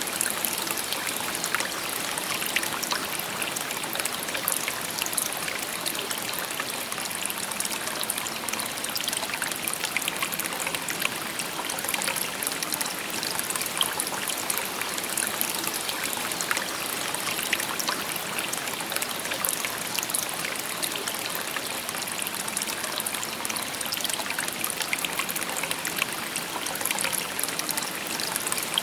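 A shallow river or brook babbling steadily over stones, a continuous trickling wash with many small splashes.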